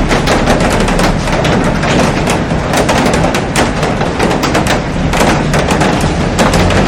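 Heavy rain falling steadily, drops pattering densely on a glass roof and garden foliage.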